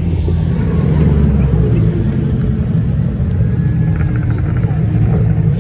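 Car engine running with a steady, low exhaust rumble.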